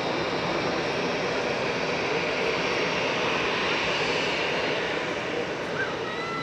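Jet airliner engines running steadily, a continuous rushing noise that swells slightly midway. A short, high pitched call cuts in near the end.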